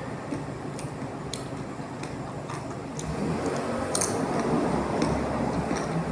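Biting and chewing crisp fried sweet potato sticks: a few short sharp crunches, the sharpest about four seconds in, over a low rumble that grows louder about halfway through.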